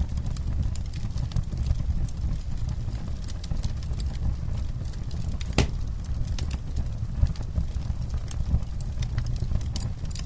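Wood campfire crackling with frequent small pops and one louder snap about halfway through, over a low steady rumble.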